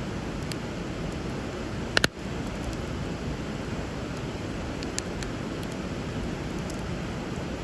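Wood fire burning over a river: a steady rush of flowing water with occasional crackles and pops from the burning wood, the sharpest pop about two seconds in.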